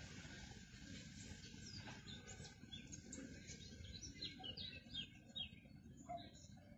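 Faint bird chirps: a quick run of short, high, falling notes over faint low background noise.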